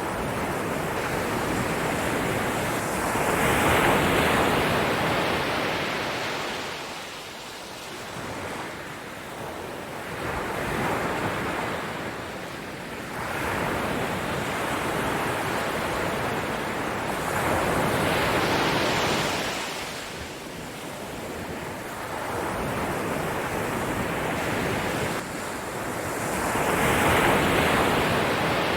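Ocean surf: a steady rush of breaking waves that swells and recedes, with four surges about seven to eight seconds apart.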